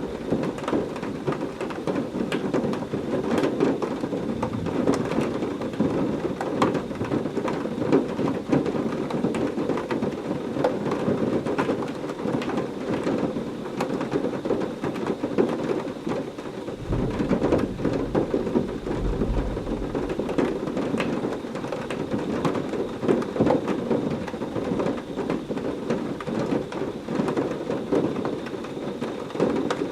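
Heavy rain falling steadily in a dense wash of drops, with a low rumble of thunder lasting about three seconds, starting a little past the middle.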